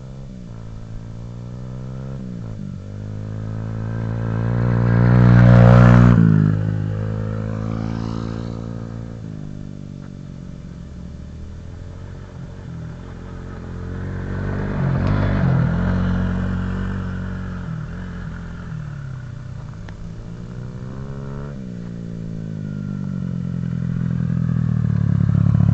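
An off-road vehicle's engine revving as it rides close past and away again, loudest about six seconds in, again around fifteen seconds, and building once more near the end. The pitch drops sharply as it passes.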